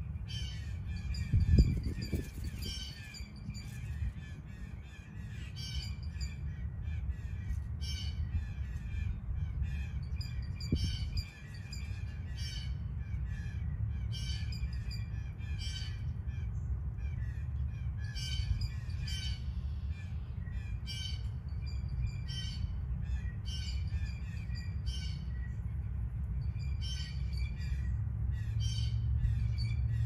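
Birds calling again and again, short high calls coming in irregular clusters, over a steady low rumble. A single thump about a second and a half in is the loudest sound.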